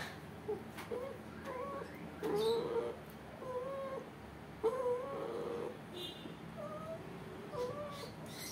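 Anesthetized pit bull-type puppy whimpering and whining in its sleep during ear cropping: a string of short, high whines about once a second, each rising then holding its pitch. It is not awake, just crying under the anesthetic.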